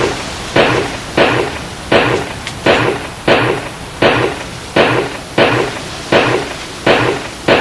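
A regular series of loud, sharp strikes, about one every two-thirds of a second, each fading quickly.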